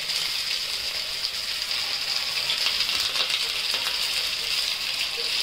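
Potato-stuffed bread rolls sizzling in shallow hot oil in a frying pan: a steady hiss with light crackling.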